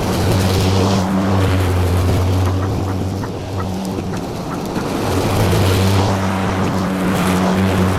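Petrol lawn mower engine running steadily with a constant low hum, easing off a little in the middle and coming back up near the end.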